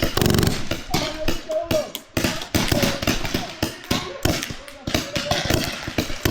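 Paintball markers firing: a rapid, irregular run of sharp pops.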